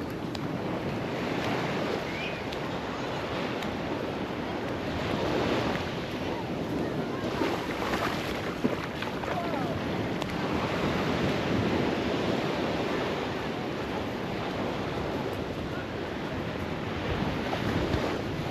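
Ocean surf breaking and washing up the beach, swelling and easing every few seconds, with wind noise on the microphone.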